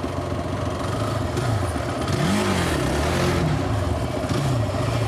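A 450cc single-cylinder sport quad bike engine running and being revved, its pitch rising and falling several times in the second half.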